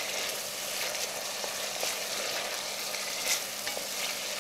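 Onion paste with ginger-garlic paste sizzling in hot oil in a cast iron pot on high heat: a steady frying hiss, with the light scrape of a wooden spatula stirring it.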